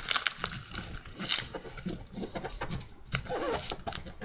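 A sheet of 8.5 by 11 inch paper being folded over and creased by hand, with irregular crinkling rustles and sharp crackles as the top edge is turned down in one-inch strips.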